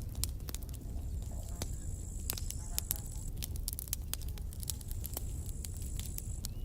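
Campfire burning: wood crackling with many sharp, irregular pops and snaps over a steady low rumble. A faint high, thin tone sounds twice, each time for about two seconds.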